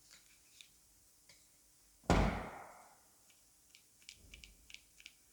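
A single dull thump about two seconds in, like something set or knocked down on the worktable, followed by a few faint clicks and taps of hands handling craft materials.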